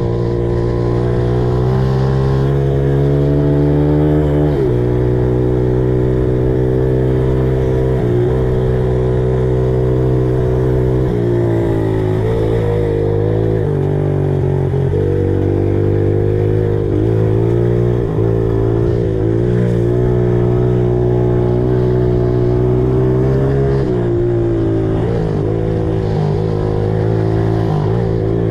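An old pit bike's small four-stroke engine running hard under throttle while being ridden. The revs drop sharply and climb again several times, with the pitch rising and falling as the rider works the throttle.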